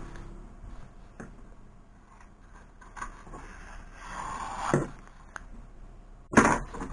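Hand-work handling noises: scattered light clicks and taps, with a brief rubbing or scraping sound that swells about four seconds in, and a louder short scrape or thump near the end.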